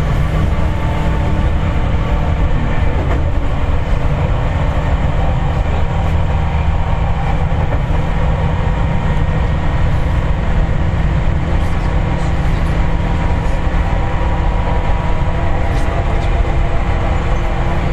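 Seibu 4000 series electric train running between stations, heard inside the passenger car. It makes a steady running rumble with a few faint steady tones and no change in speed.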